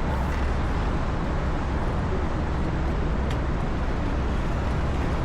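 Steady road traffic noise: a continuous low rumble of passing cars.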